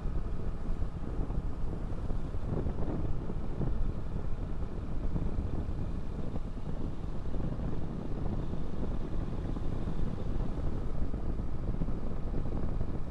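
Steady wind rush and rumble on the microphone of a moving motorcycle, with its engine and road noise blended underneath.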